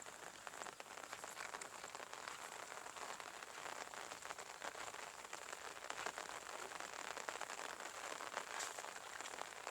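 Steady light rain falling, a fine, even patter of many small drops.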